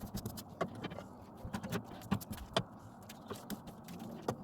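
Irregular light clicks and knocks, with faint scraping, from a brush working a thick sealer coating onto the metal pan of an evaporative (swamp) cooler.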